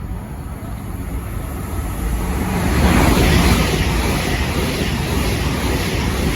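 Avanti West Coast Class 807 Evero electric train passing through at speed: a steady rush of noise that builds to its loudest about three seconds in and stays loud.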